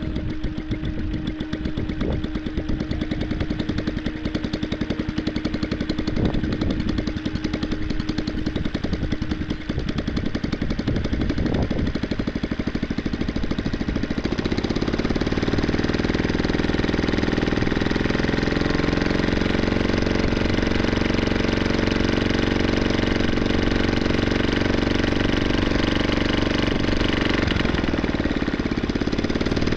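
ULTIMOTOR small air-cooled engine running with a rapid, steady stream of firing pulses. About halfway through, its sound changes and becomes louder and more even, with a steady hum.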